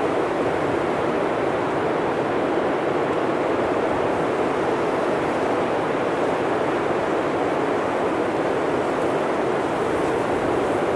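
Blizzard wind blowing through forest trees, a steady, even rush without gusts or breaks.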